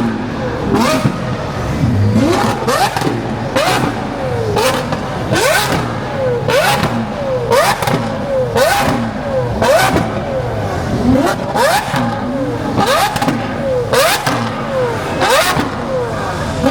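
A car engine revved again and again, its pitch climbing and falling back about once a second.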